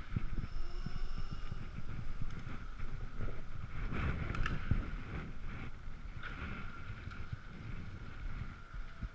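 Riding noise from an Ekoway ML5000 electric scooter on a wet road: a fluctuating low rumble of wind and tyres, with a steady high whine running through it.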